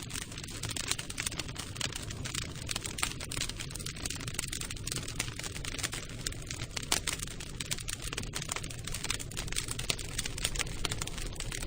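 Campfire crackling: dense, irregular pops and snaps of burning wood over a steady low rumble.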